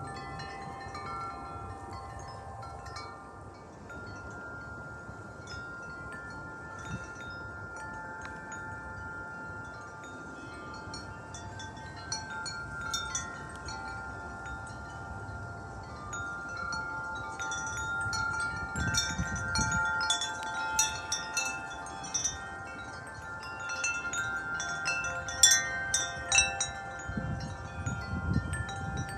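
Tuned metal-tube wind chimes ringing in gusty wind, several notes overlapping and sustaining. The striking grows busier and louder in the second half, with low rumbles of wind on the microphone now and then.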